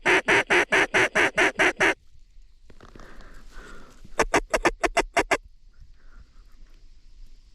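Mallard hen quacks blown on a duck call: a loud, evenly spaced run of about a dozen quacks at roughly five a second, then about four seconds in a shorter, faster run of about eight. This is calling to a flock of mallards working toward the decoys.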